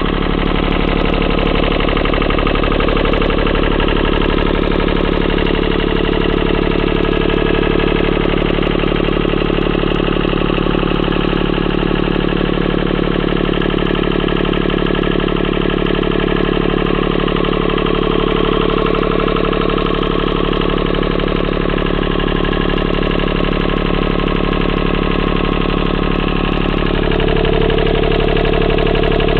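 Deutz three-cylinder diesel engine running at a steady speed, a little louder near the end.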